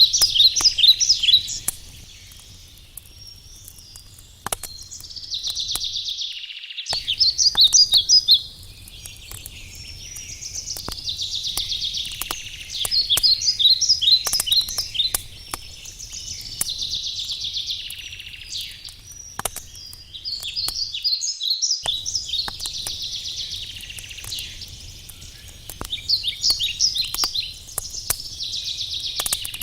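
Forest birds singing: repeated phrases of quick high notes every few seconds, over the scattered crackle and pops of a wood campfire. The whole sound drops out briefly twice.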